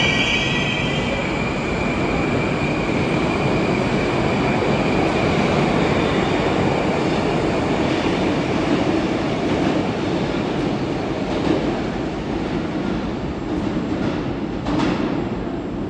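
Moscow Metro train running along the platform, a high wheel squeal dying away in the first two seconds, then a steady rumble of wheels and cars, with a brief sharp knock near the end.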